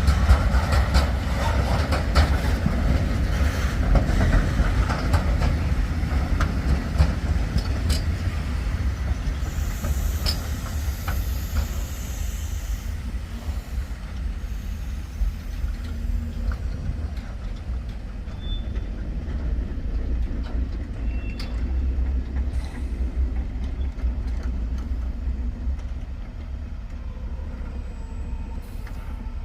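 A train running on the rails: a steady low rumble with scattered wheel clicks and a few faint high squeals, easing off gradually toward the end.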